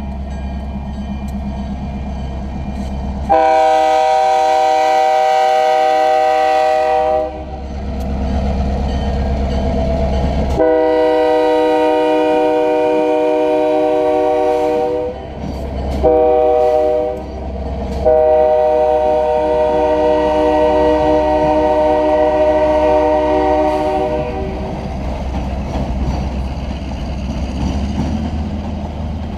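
Union Pacific diesel locomotive's multi-chime air horn sounding the grade-crossing signal: two long blasts, one short, then one long. The locomotive engines run low underneath.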